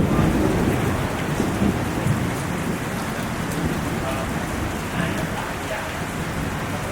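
Heavy rain falling steadily, a dense even hiss that slowly gets a little quieter.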